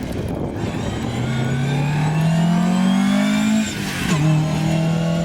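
Rally car engine accelerating hard, its pitch climbing as it revs out, then dropping sharply at a gear change about four seconds in before it pulls on again.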